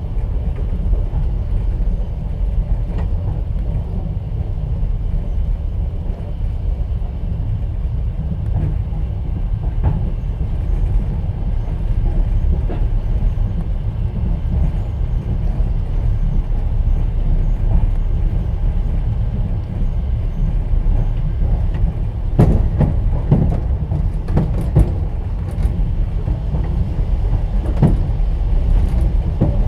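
Steady low rumble of a passenger train carriage running along the track, heard from inside the carriage, with a quick run of sharp wheel knocks over rail joints about two-thirds of the way through and another near the end.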